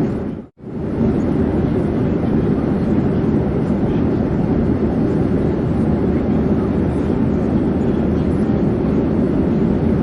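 Steady low drone of an airplane in flight, a dense even noise with no distinct tones. About half a second in, it drops out for a moment and fades straight back in.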